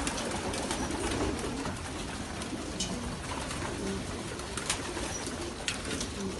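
A flock of racing pigeons cooing over a steady rustling background, with a few sharp clicks or snaps.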